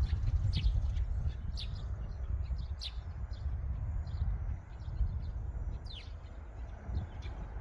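Birds chirping outdoors: short, high, falling calls repeating every second or so, over a steady low rumble.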